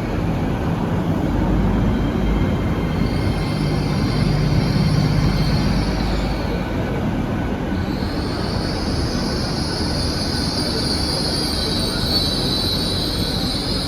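A train rolling over the rails with a steady rumble and a high wheel squeal that starts about three seconds in, eases off briefly, then returns louder for the rest of the time.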